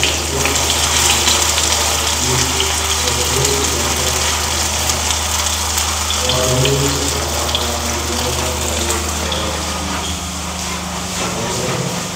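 Vegetable fritters (bakwan sayur) frying in shallow oil in a small nonstick pan, a steady sizzle with many small crackling pops.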